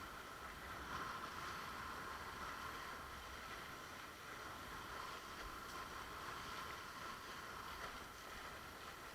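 Steady rush of water along a windsurf board's hull while it is sailing, with some wind noise.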